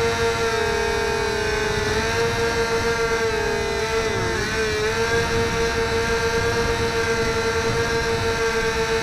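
Electric motor and propeller of a HobbyZone Firebird Delta Ray RC plane whining steadily in flight, its pitch dipping briefly about four seconds in, over rough wind rumble on the microphone.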